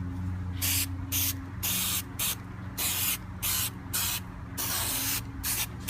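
Spray adhesive hissing in a quick series of short bursts, about two a second, as glue is sprayed onto a speaker panel before it is wrapped in covering material.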